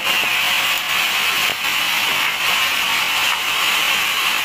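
Sawmill bandsaw cutting a squared teak log into 5 cm planks: a steady, high-pitched hiss of the blade through the wood.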